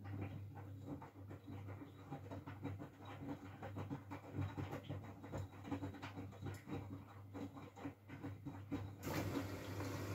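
Miele W433S front-loading washing machine in the wash phase: the drum turns wet laundry with irregular soft knocks and splashes over a steady low hum. About nine seconds in, a rush of water starts as the inlet valve lets more water in.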